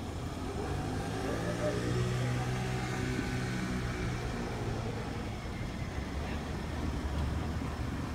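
Small car's engine running at low speed as it inches back and forth while parallel parking, rising in pitch a second or so in as it is given a little throttle, then settling back to a low hum.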